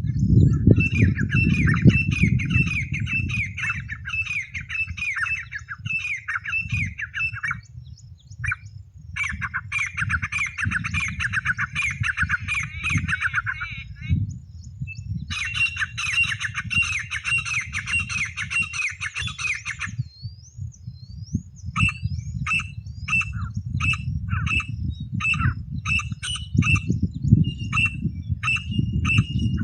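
Francolin (teetar) calls, used to lure the birds: runs of rapid, repeated downward-slurred notes lasting several seconds with short pauses between them, then spaced single notes near the end. A low rumble runs underneath throughout.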